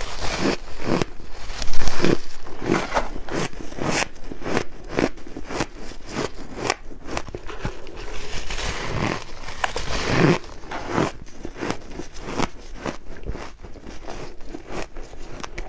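Someone biting into and chewing chunks of freezer frost in a rapid, irregular run of crisp crunches. The loudest bite comes just under two seconds in.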